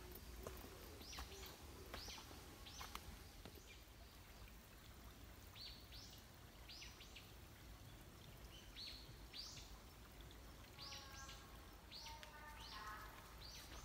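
Small birds chirping: short, high calls that drop in pitch, about one a second, faint over a steady low rumble. Near the end a lower call made of several tones joins in.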